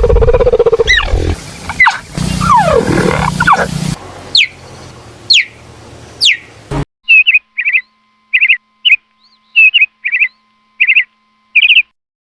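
A run of animal calls: a loud, noisy call with sliding pitches lasting about four seconds, then three sharp falling whistles, then about ten short chirps spaced out over the last five seconds, stopping a little before the end.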